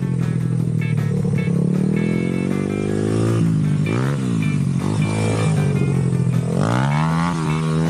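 Honda XR100's single-cylinder four-stroke engine running under throttle, revs climbing, dropping off around three and a half seconds in, holding steady, then dipping and climbing again near the end.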